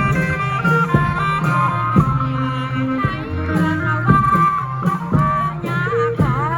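Isan folk music for a dance procession, played by a band: held melody notes over a steady drum beat of about one strike a second, with a downward-then-upward pitch slide near the end.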